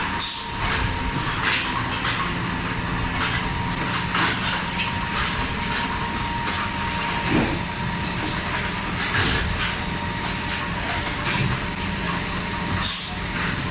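A 5-gallon cap foam-insert machine running, with a steady hum, repeated clacks and knocks, and a few short hisses.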